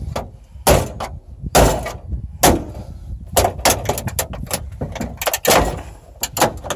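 GMC truck dashboard being struck apart with a hand tool: a dozen or so loud bangs and knocks at uneven intervals.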